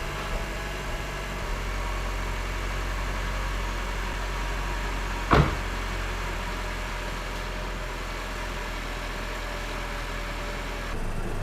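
Opel Astra K 1.4 turbo engine idling steadily through its newly fitted exhaust, running quietly with no blowing or rasp. A single sharp click about halfway through.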